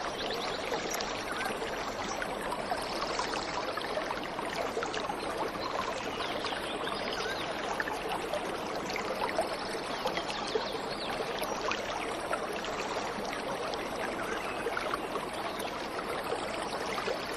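Waterfall water running and splashing steadily, an even wash of sound dotted with many small splashes.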